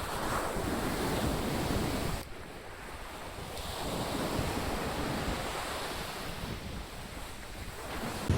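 Waves breaking and washing up a beach, swelling loud twice, with wind rumbling on the microphone.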